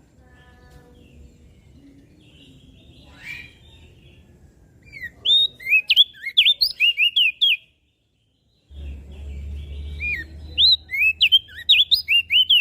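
Crested white-eye (opior jambul) singing: two runs of rapid, sharp, high chirping notes, each two to three seconds long, with a short pause between them. A low steady hum runs underneath.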